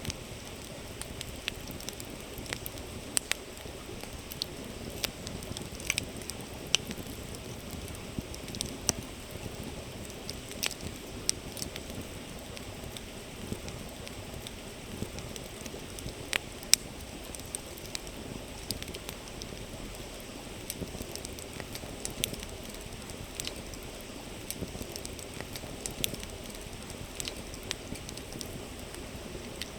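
Campfire crackling with irregular sharp pops, one louder pop a little past the middle, over the steady murmur of a flowing river.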